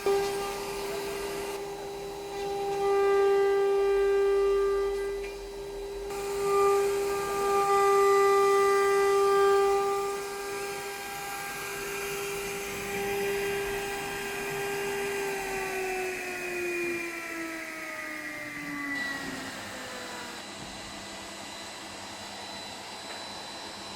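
CNC machining centre spindle whining at a high steady pitch, louder in stretches during the first ten seconds. Past the halfway point it spins down, the pitch falling over a few seconds, and a lower steady machine hum is left.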